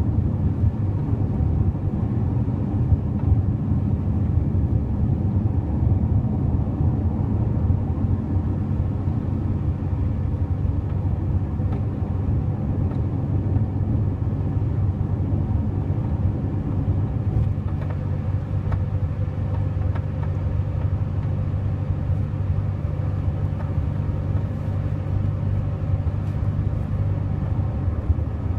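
Steady low road and engine rumble inside the cabin of a 2006 Honda Elysion minivan on the move, with a few faint ticks.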